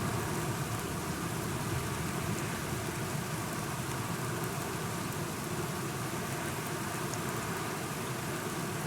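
Steady rain, a dense even hiss with a few faint drop ticks.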